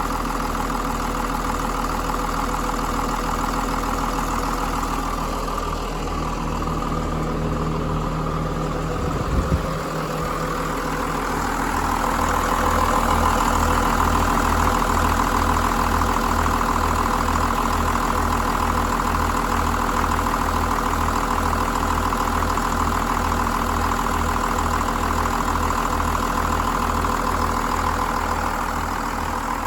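John Deere 6068 inline-six diesel engine running at idle with an even, steady rhythm. A couple of sharp knocks sound about nine seconds in, and from about twelve seconds the engine sound gets a little louder.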